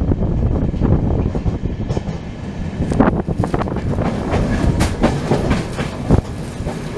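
Passenger train coach running at speed, heard from on board: a steady rumble of wheels on rails with irregular clicks and knocks as the wheels pass over rail joints, the sharpest about three, five and six seconds in.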